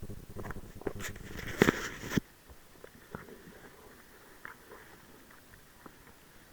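A quick run of sharp clicks and knocks, the loudest about a second and a half in and another just after two seconds, then only a few faint scattered clicks.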